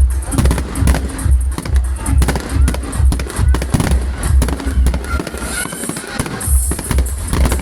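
Fireworks crackling and banging over music with a steady bass beat about twice a second. The beat drops out for about a second around six seconds in.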